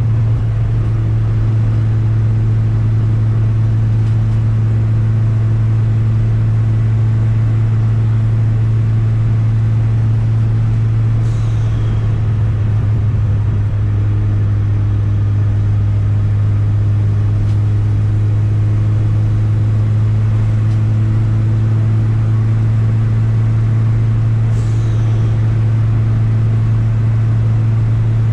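Turbocharged Chevette engine running at a steady cruise, a deep, even drone that holds the same pitch throughout. A brief high, falling whistle cuts in about midway and again near the end.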